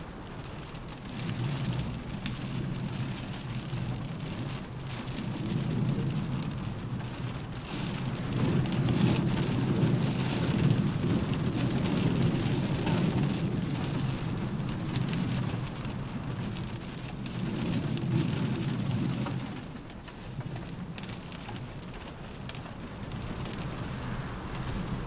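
Rain falling steadily on a car roof, with wind, a low rushing that swells and eases in gusts over several seconds, loudest around the middle.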